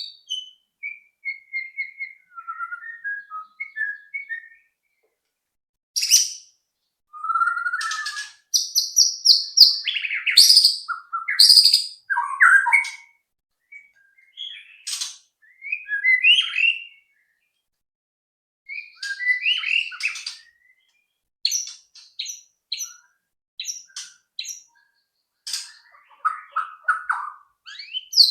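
White-rumped shama (murai batu) singing: varied whistled and chattering phrases with quick rising and falling notes, broken by short pauses of a second or so.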